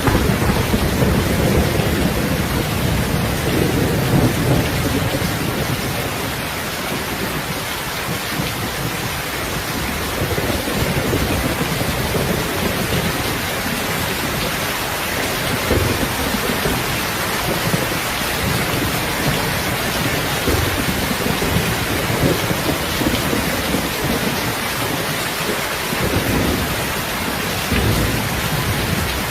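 Steady heavy rain with a low rumble underneath that swells and fades, strongest in the first few seconds.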